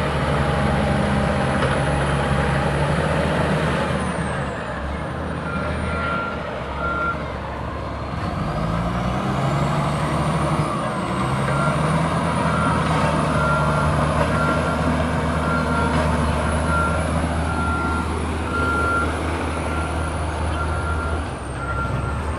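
Shantui SD22 bulldozer's diesel engine running under load, its pitch shifting as the load changes, with a reversing alarm beeping evenly from a few seconds in, stopping briefly and then beeping again.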